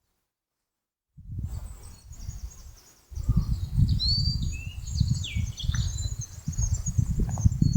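Birds chirping and singing in short whistled phrases, over gusts of wind rumbling on the microphone. Everything starts after a second of silence, and the wind grows stronger about three seconds in.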